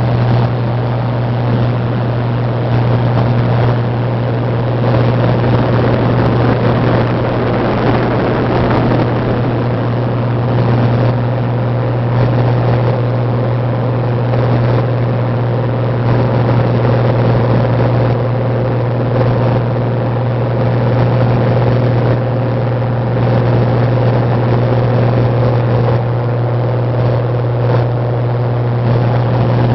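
Cessna 182 single-engine propeller plane in flight: a steady, unbroken low engine-and-propeller drone with a constant rush of air noise over it.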